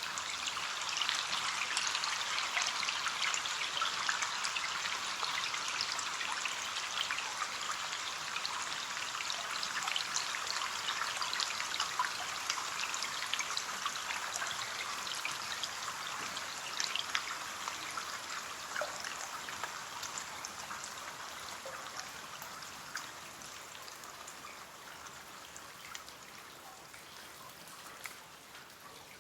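Rain on a window: a steady patter with many separate drops ticking sharply, growing gradually quieter over the second half.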